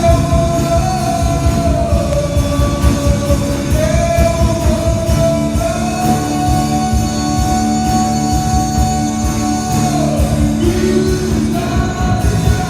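A worship band plays a Christian worship song in Portuguese, with a singer holding long notes over a full band with drums. One long held note slides down about ten seconds in.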